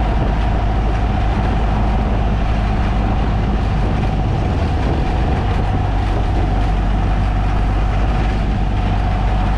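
A VW Baja Bug's 1968cc air-cooled flat-four engine running steadily while driving, heard from inside the cabin mixed with steady road and body rumble. There is a slight shift in the engine's pitch about halfway through.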